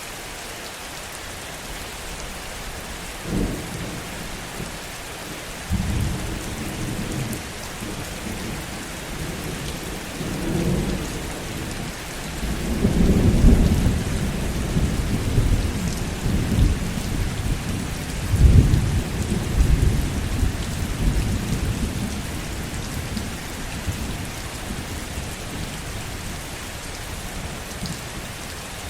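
Steady heavy rain with a long roll of thunder. A short rumble comes about three seconds in, then the thunder builds to its loudest peaks near the middle and fades away a few seconds before the end.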